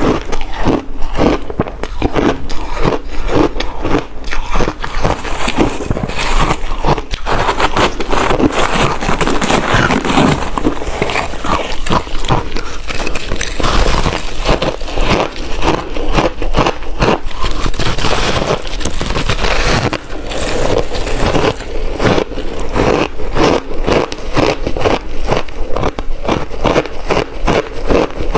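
Ice being bitten and chewed close to the microphone: a dense, continuous run of crunching and crackling.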